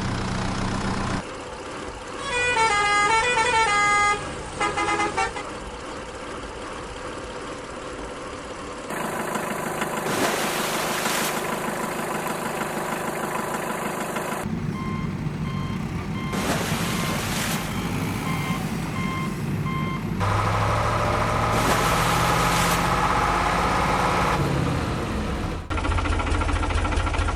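Cartoon sound effects of heavy vehicles: truck and tractor engines running, with horn honks. The sounds change abruptly every few seconds, and there is a short run of tooting horn notes a few seconds in.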